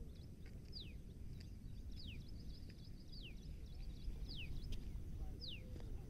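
A bird repeating one short, high whistle that falls in pitch, five times at an even pace, over a steady low rumble.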